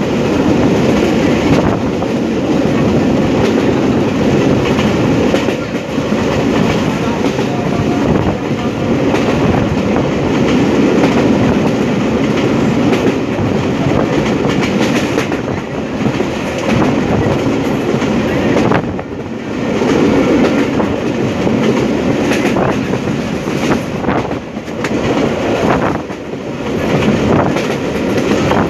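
Passenger train running along the track: a steady rumble of wheels on rails with clatter at the rail joints, heard from inside a carriage at the window.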